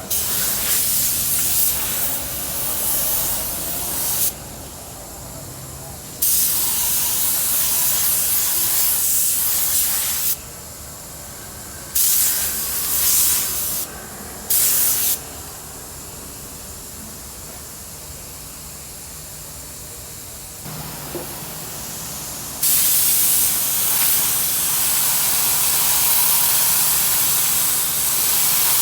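Compressed-air paint spray gun hissing in on-off bursts as its trigger is pulled and released: several long passes of several seconds and a few short ones, during spraying of the car's bodywork.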